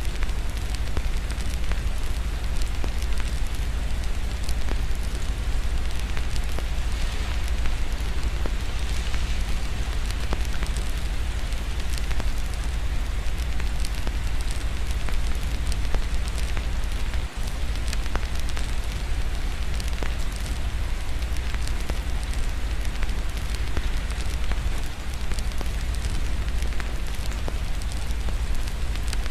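Wood fire crackling in a fireplace with many small pops, over a steady patter of rain and a constant deep rumble.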